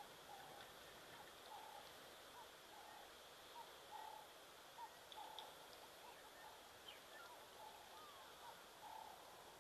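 Faint, short calls from a bird, repeated about twice a second, over a steady high-pitched background whine.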